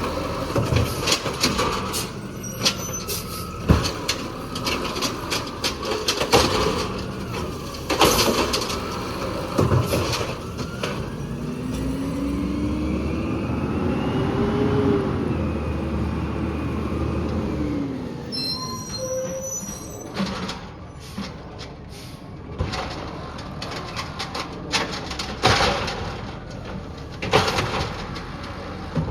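Peterbilt 320 automated side-loader garbage truck working: a string of sharp clanks and knocks over its running engine, with a whine that rises for a few seconds and then falls away midway through.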